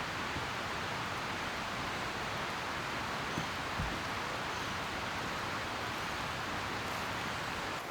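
Steady rain falling, an even hiss that holds at one level throughout, with one faint low knock about four seconds in.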